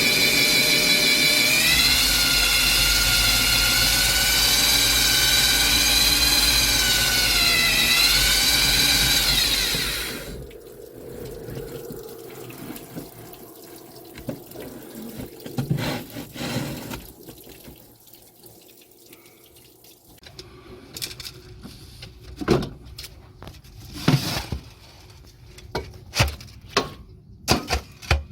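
A loud motor-driven machine runs with a whine that wavers and dips in pitch, then cuts off about ten seconds in. After that come scattered knocks and clicks, more of them near the end.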